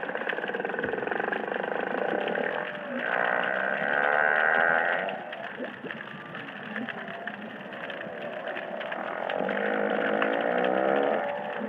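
Humpback whale song over the steady crackle of a coral reef: long moaning calls with many overtones that bend in pitch, with a louder, higher phrase about three to five seconds in and another near the end.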